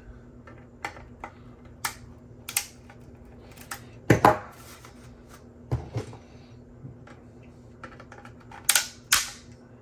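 3D-printed plastic support material being snapped and clipped off a printed helmet: a string of separate sharp clicks and snaps, with a louder snap about four seconds in and a double snap near the end.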